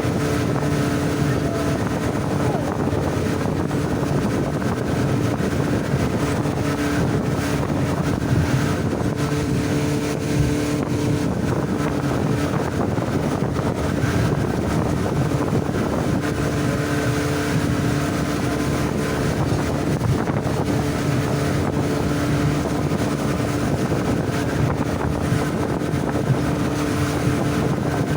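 Motorboat engine running steadily at speed, a constant drone, with wind buffeting the microphone and some water noise.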